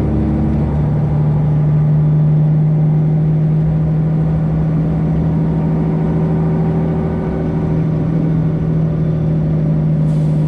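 Freightliner Classic XL semi truck's Detroit Diesel 12.7-litre engine running at low speed with a steady drone, easing off slightly about seven seconds in.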